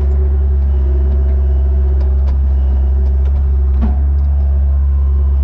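Bobcat skid-steer loader's engine running steadily at a constant speed, with a few light knocks about two to four seconds in.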